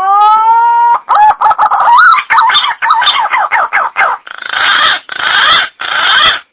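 Green pigeon (punai) calling: a rising whistled note about a second long, then a quick run of wavering, warbling notes, ending in three harsh, rasping notes.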